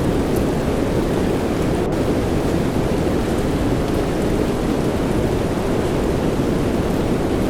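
Steady soft rain, a dense even wash of noise weighted toward the low end, with a few faint higher drops standing out.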